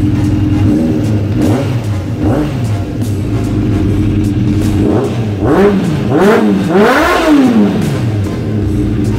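Suzuki GSX600F inline-four engine idling through an aftermarket aluminium silencer, then revved in several quick blips in the second half, the highest one near the end.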